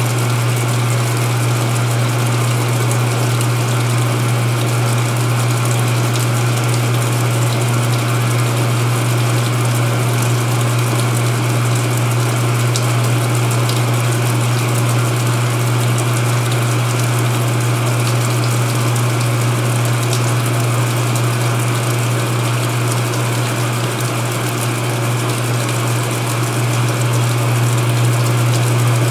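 Speed Queen belt-drive top-load washer in its spin-drain: the tub spins with a steady whirring hiss while the drain pump hums steadily, pumping out the water.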